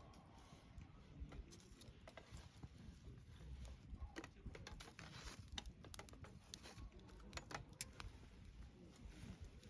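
Wood campfire crackling, with irregular sharp snaps and pops of burning wood scattered over a low rumble of the flames.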